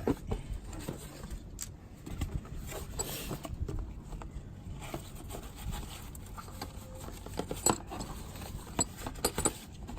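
Scattered light clicks and clinks of small metal bolts and tools being handled during engine-cover removal, with a few sharper clicks.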